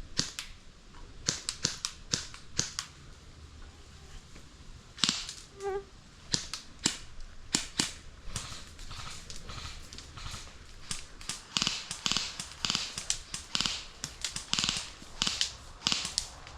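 Airsoft guns firing: sharp snapping shots, scattered at first, then coming in quick runs through the second half.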